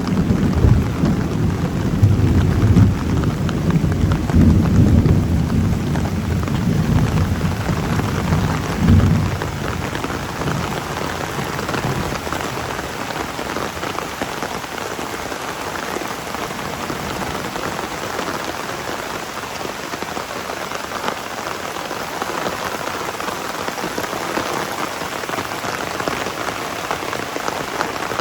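Heavy rain pouring steadily, with a long rolling rumble of thunder through the first ten seconds or so that dies away about twelve seconds in.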